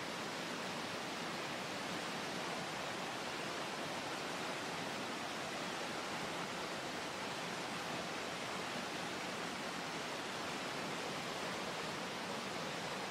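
Fast water of a creek's rapids and waterfalls, rushing in a steady, unbroken roar.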